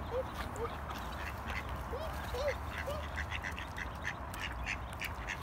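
Ducks calling with a few short, soft quacks in the first three seconds. From about a second and a half in, a fast run of short, high chirps comes in over a steady low rumble.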